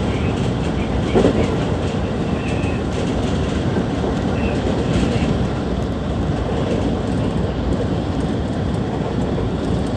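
Inside a JR West 223-series electric train running at speed: steady rumble of wheels on rail, with clickety-clack over rail joints and a brief louder moment a little over a second in.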